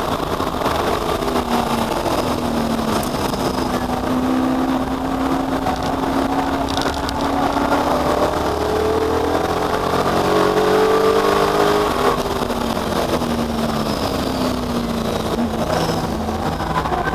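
V8 muscle car engines racing on a circuit, their notes rising as they accelerate and falling away as they pass, more than one engine heard at once.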